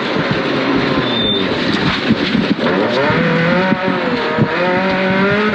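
Subaru Impreza 2.5RS rally car's naturally aspirated flat-four engine pulling hard at speed on a muddy stage, its note falling and then rising again, over loud tyre and road noise.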